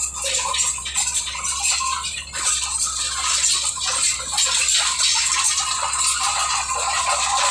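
Bulldozer travelling: steady, dense clattering of its steel crawler tracks over a low, even engine drone.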